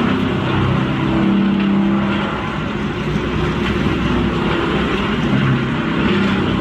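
Large wood chipper running hard: a steady engine note that wavers a little in pitch, under a dense rumble of wood being chipped.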